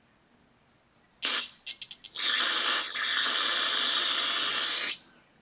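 Aerosol carburetor cleaner sprayed into a small-engine carburetor's ports. There is a short burst, then a few quick spurts, then a steady spray of about three seconds that stops suddenly.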